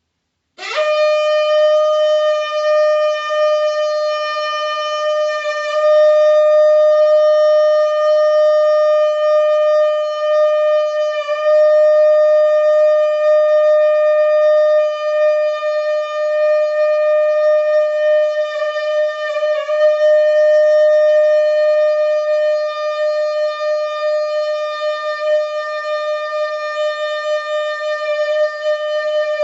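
Conch shell (shankha) blown in one long, loud, steady note, which swoops up into pitch about half a second in and is held without a break, wavering briefly a few times.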